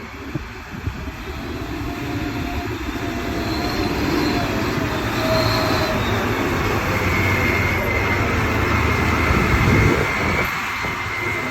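Heavy truck running under load, its engine drone and a faint whine growing louder over the first few seconds and peaking near the end.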